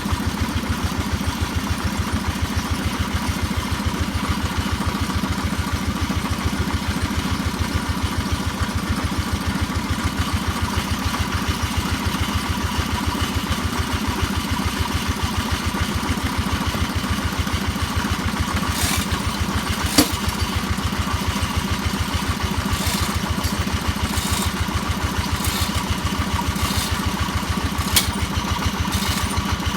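Engine of a percussion drilling machine running steadily at an even pace. Several sharp knocks in the last third, one about twenty seconds in being the clearest.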